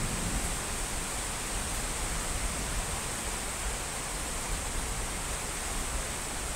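Steady rain hiss, with the low rumble of a thunderclap dying away at the very start.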